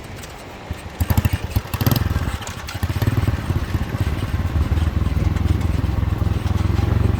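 70cc single-cylinder motorcycle engine: uneven revving with clattering about a second in, then settling into a steady low chugging as it runs.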